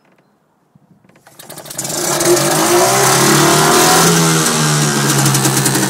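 British Seagull two-stroke outboard motor starting: a few clicks, then it catches about a second and a half in and runs loudly, its speed rising and then holding.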